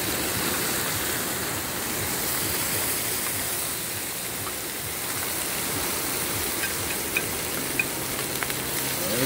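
Wahoo pieces and onions sizzling steadily in butter and olive oil on a large steel cooking disc over a gas burner, with a few small pops in the second half.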